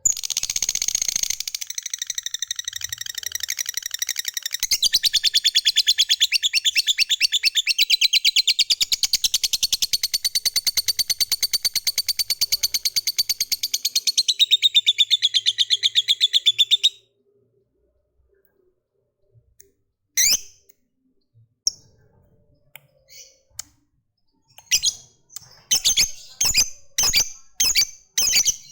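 Lovebird singing a long, rapid, high-pitched chattering trill (the 'ngekek' prized by lovebird keepers) that runs about seventeen seconds and stops abruptly. After a pause it gives a few single sharp chirps, then a quick series of them near the end.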